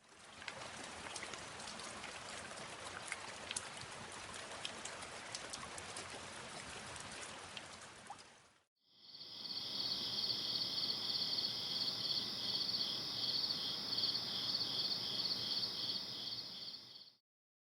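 Rainforest ambience in two parts. First a steady hiss of water with scattered drip-like ticks, as of rain. Then, after a brief gap, a louder insect chorus: a high, rapidly pulsing buzz at two pitches that cuts off shortly before the end.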